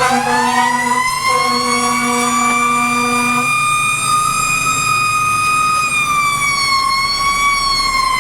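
Fire truck siren winding up quickly, holding a steady high pitch, then slowly falling near the end. A lower steady tone sounds twice over the first few seconds, with the truck's engine rumbling underneath.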